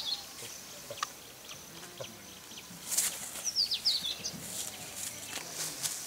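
A bird giving quick runs of high, falling chirps, once at the very start and again about three and a half seconds in, over quiet rural outdoor ambience with scattered clicks and a brief rustle near the middle.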